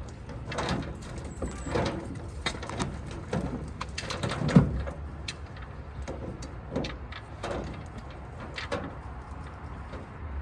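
Irregular knocks and clanks of hands-on work on the engine and its hoist, with one heavier thump about four and a half seconds in.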